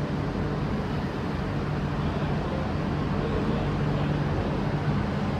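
Steady low rumble and hum of an MTR Kwun Tong line electric train running at the platform, with no clear start or stop.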